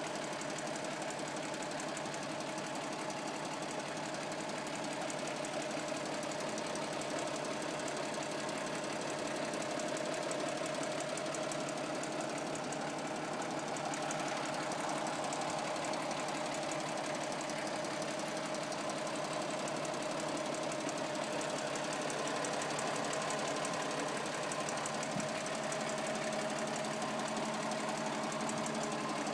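Toyota F-series straight-six engine of a 1962 FJ40 Land Cruiser running steadily at a constant speed, with a fast, even pulse.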